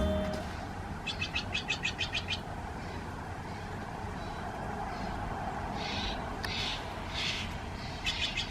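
Songbirds calling outdoors: a fast run of about ten high chirps, a few longer calls, then another run of chirps, over a steady background hiss.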